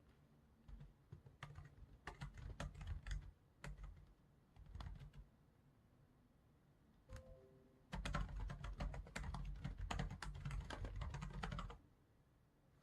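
Typing on a computer keyboard: a few short bursts of keystrokes, then a longer fast run of typing in the second half.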